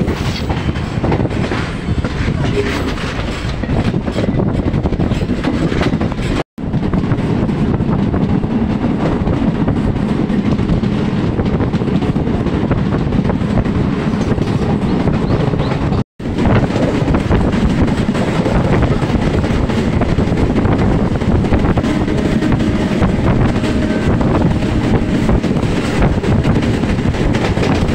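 Running noise of a MEMU electric passenger train under way, heard from its open doorway: a steady, loud rumble of wheels on the track. The sound cuts out abruptly for a moment twice, about six and a half and sixteen seconds in.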